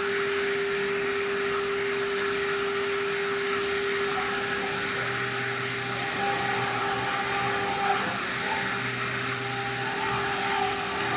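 ACUT 6090 CNC router spindle running with a steady high whine over a broad hiss. About halfway in, a lower hum joins it; the hum stops and restarts twice.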